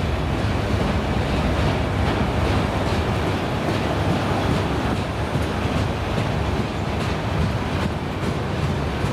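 Freight train rolling past: a loud, steady noise of railcar wheels running on the rails, with faint clicks from the rail joints.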